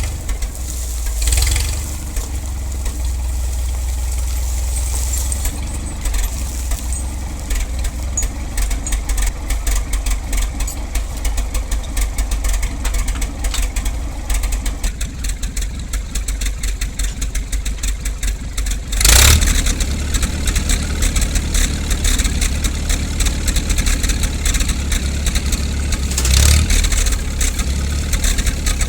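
Tractor engine running steadily while pulling on a chain hitched to a seized engine. About nineteen seconds in there is a sudden loud burst, after which the engine runs a little louder.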